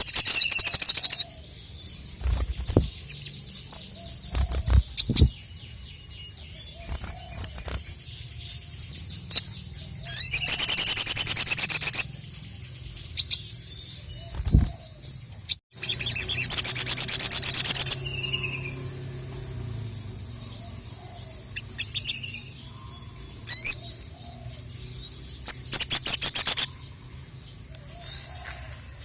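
Sogon (sogok ontong, the little spiderhunter) singing in four loud bursts of fast, rapidly repeated high notes, each one to two seconds long. Short scattered chirps fall between the bursts.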